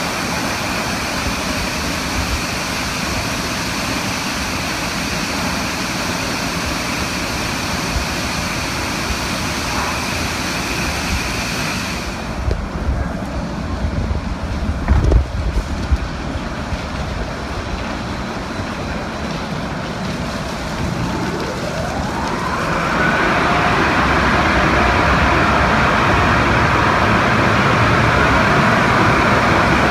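Automatic car wash machinery running around a car: a steady rush that changes character about 12 seconds in, with a few low thumps, then a rising whine about 21 seconds in that leads into a louder, steady rush.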